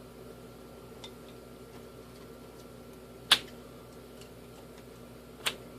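Sharp taps of trading cards being put down on a tabletop during play: a faint one about a second in, a loud one just after three seconds and a smaller one about two seconds later, over a faint steady room hum.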